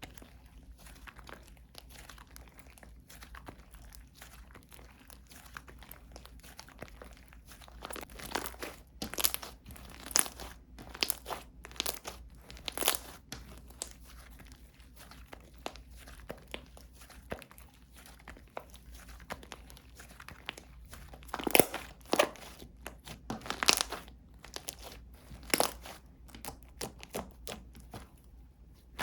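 Slime being played with by hand, stretched and pressed, giving runs of small crackling clicks and sharper pops. The pops come in louder clusters about a third of the way in and again later on.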